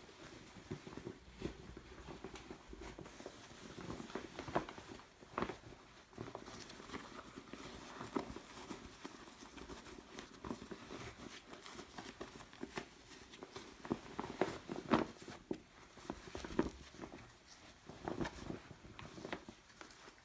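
Fur and fabric rustling, with scattered soft knocks and scrapes, as a freshly sewn fur cover is handled and turned right side out, over a faint steady hum.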